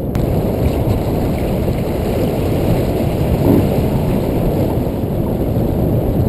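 Strong wind buffeting the microphone aboard a small sailboat under sail in high wind: a steady, loud, low rumble with no letup.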